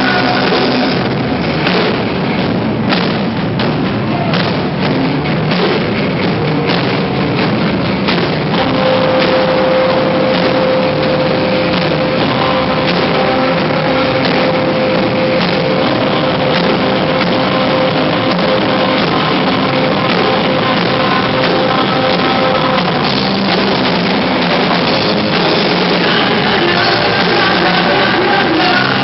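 A rock band playing live, loud, with drum kit and guitars. Drum hits stand out early, then a single sustained note is held for about fourteen seconds through the middle.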